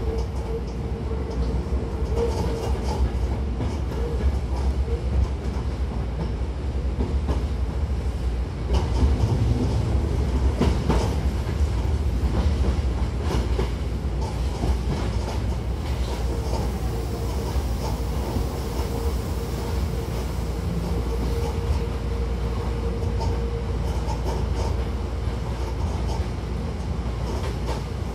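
Hankyu 1000-series electric commuter train running, heard from inside the car at the doors: a steady low rumble of wheels on rail with clicks and clacks over rail joints, louder and busier around ten seconds in, and a faint steady hum that fades in and out.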